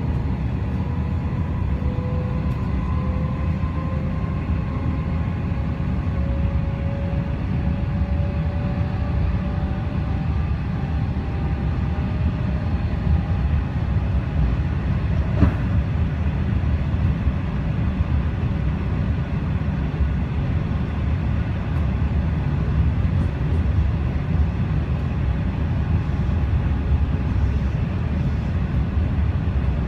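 Electric suburban train running, heard from inside the carriage: a steady low rumble of wheels on the track, with a motor whine that rises slowly in pitch over the first ten seconds or so as the train picks up speed. A single sharp click about halfway through.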